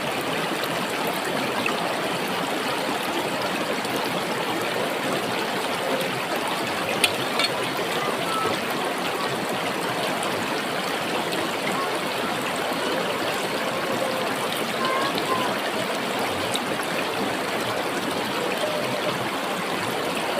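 Steady rushing of flowing water, as from a stream, with a brief tap about seven seconds in.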